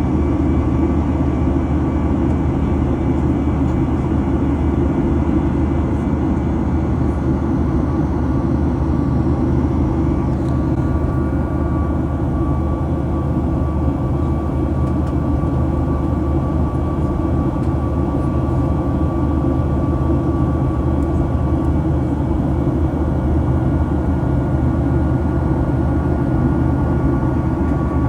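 Steady cabin noise inside a Boeing 737 MAX 8 airliner: an even low rumble of the engines and airflow, with a few faint steady tones above it.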